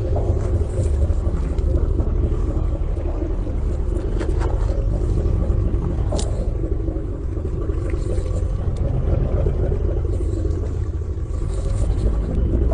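Steady low rumble of a boat under way at sea, its engine running, with a few faint knocks.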